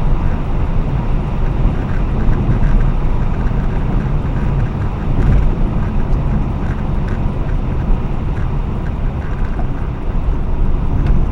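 R55 BMW Mini being driven: a steady low road and tyre rumble with wind on the microphone, and a few faint knocks from the car's front end.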